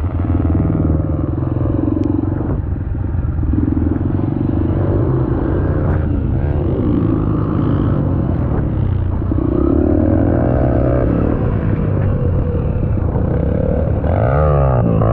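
Dirt bike engine running while being ridden, its pitch rising and falling with the throttle, with a sharp rev near the end.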